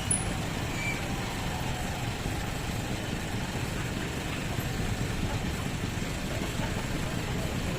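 Large truck engine running steadily at a low, even speed.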